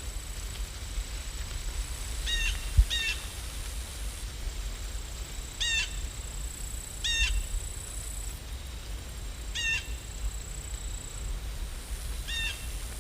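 A bird calling: six short, downward-sweeping calls spaced irregularly a second or more apart, over a steady background hiss.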